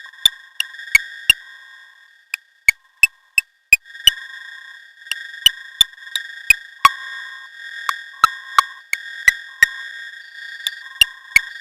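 Electronic synthesizer music: sharp percussive clicks in an uneven rhythm, about two to three a second, over a steady high-pitched tone, with short lower beeps in between.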